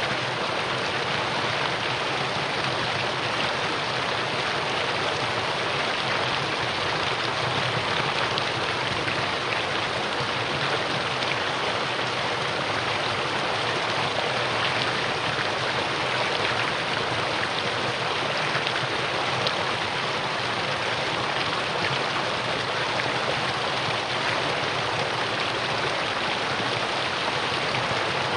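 Mountain valley stream rushing over rocks: a steady, even water noise without any breaks.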